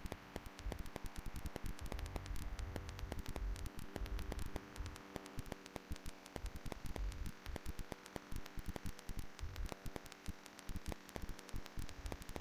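Crackling static: dense irregular clicks over a steady electrical hum, with no speech.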